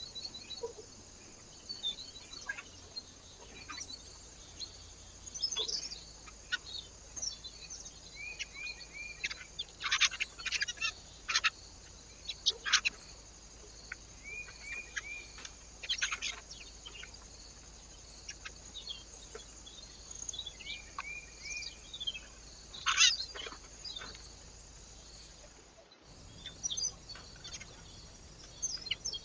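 Small birds chirping and calling at a feeder: scattered short chirps, several sharp loud calls, and now and then a quick run of three or four repeated arched notes. The sound cuts out suddenly for a moment near the end, then the chirping goes on.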